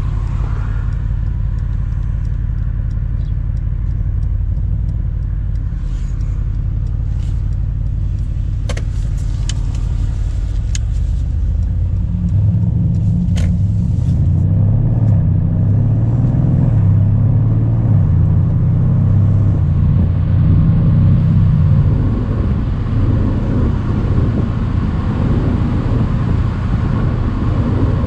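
Mercedes-AMG C63's twin-turbo V8 running at a steady cruise on the road, its low exhaust note heard from the open-top cabin. About twelve seconds in it grows louder as the car pulls harder under load for roughly ten seconds, then eases back. A few sharp clicks come in the middle.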